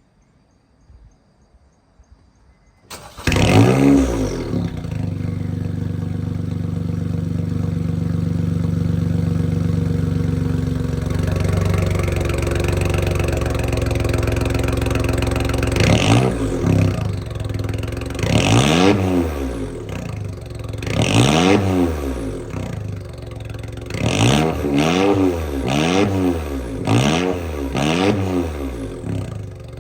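Honda S660's turbocharged 660 cc three-cylinder engine breathing through a straight-piped one-off exhaust with the catalytic converter replaced by a straight pipe. It starts about three seconds in, flares and settles to a steady idle, then is blipped about eight times, the last five in quick succession.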